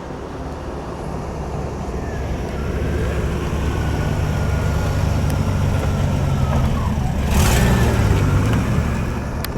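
A car engine approaching and driving past, its deep rumble growing louder for several seconds and peaking about eight seconds in before easing off. A thin whine above the rumble drops in pitch as the car goes by.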